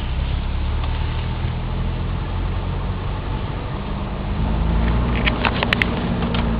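Volvo 740 GLE's 16-valve four-cylinder petrol engine running steadily, still warming up after a cold start. About four seconds in its note steps up slightly, and a few short clicks come near the end.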